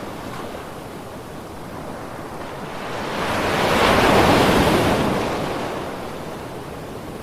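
Ocean waves washing onto a beach: one wave swells and breaks loudest about four seconds in, then draws back into a softer wash.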